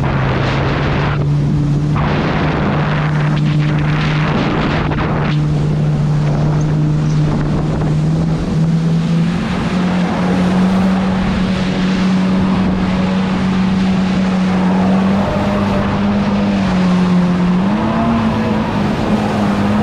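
Jet ski engine running at speed, a steady drone that steps up in pitch partway through and again near the end, with wind rushing over the microphone.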